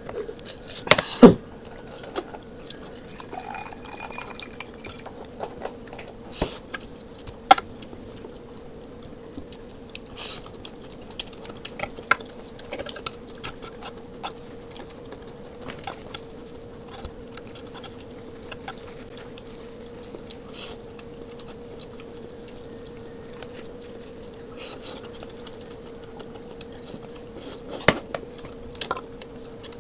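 People eating: chewing, with scattered short clicks and knocks of utensils and dishes, over a steady faint hum.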